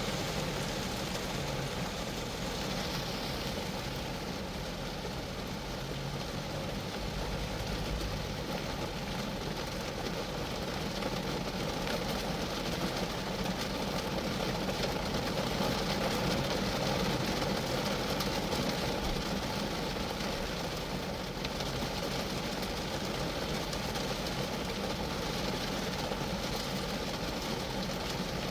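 Steady rain falling on a Geo Metro, a dense, even patter of drops on the car.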